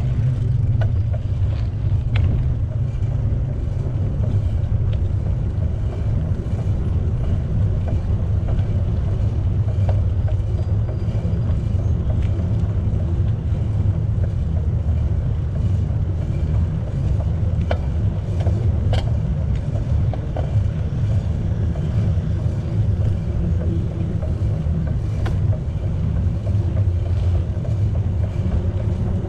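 Steady low rumble of a bicycle in motion: wind buffeting the microphone and tyres running over the path, with a few faint clicks.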